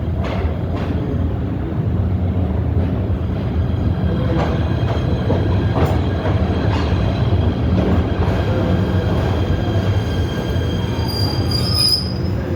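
PATH subway train running through the tunnel, heard from inside the car: a steady loud low rumble with occasional sharp knocks from the wheels. A high-pitched wheel squeal rises near the end.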